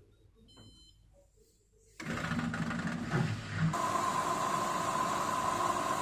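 A short electronic beep, then about two seconds in a motorised kitchen appliance starts up and runs loudly and steadily with a high whine.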